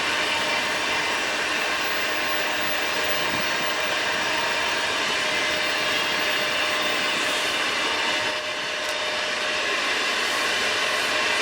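Freight train rolling past: steady rail and wheel noise, with a few faint steady ringing tones over it.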